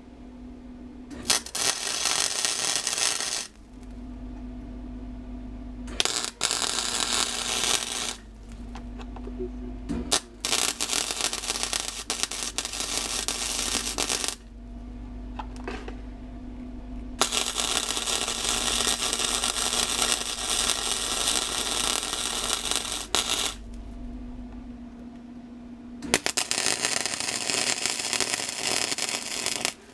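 MIG welder laying down welds in five bursts of crackling, each lasting two to six seconds and stopping sharply, while the exhaust pipes are welded up. A steady hum runs between the bursts.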